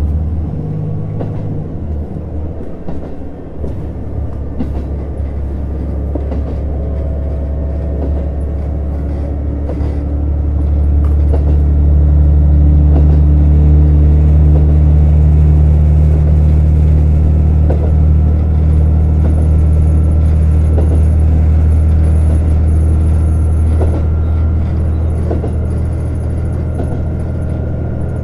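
Running sound inside a JR Hokkaido KiHa 150 diesel railcar: a deep, steady hum from its diesel engine and running gear under way. The engine grows louder about ten seconds in and then holds, easing slightly near the end.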